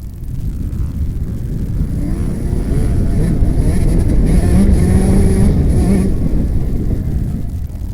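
Motocross bike engine revving hard, its pitch and loudness building to a peak about four to six seconds in, then easing off.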